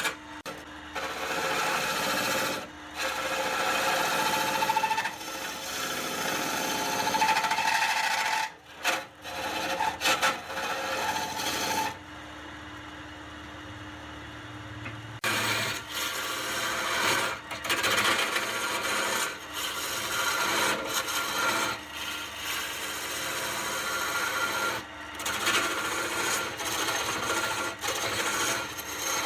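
Wood being worked on a spinning lathe: a scraping, rasping noise that keeps breaking off and starting again. About halfway through there is a quieter stretch of a few seconds with only a steady hum.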